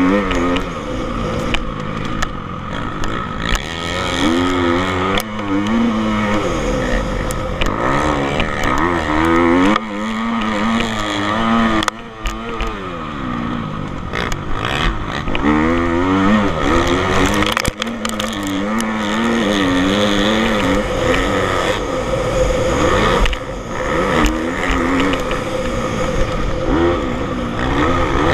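Motocross bike engines running on a track, their note repeatedly rising and falling as the riders open the throttle and shift.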